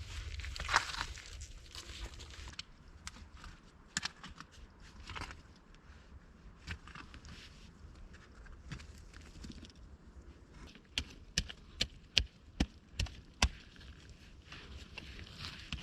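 Rustling and scattered light knocks, then a quick run of about seven sharp knocks, a little over two a second, starting about two-thirds of the way in.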